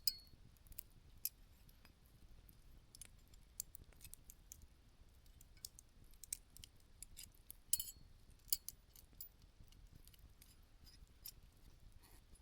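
Campfire embers and burning wood crackling: faint, irregular sharp pops and ticks, with a couple of louder snaps about eight seconds in.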